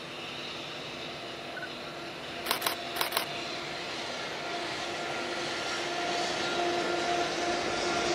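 Electric-locomotive-hauled container freight train crossing a steel girder bridge: a steady rumble with a low hum that grows louder as the train comes nearer. About two and a half seconds in, four sharp clicks come in two quick pairs.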